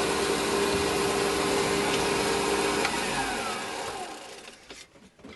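Small metalworking lathe running steadily while taking a light cut, then switched off about three seconds in, its pitch falling as it spins down to a stop.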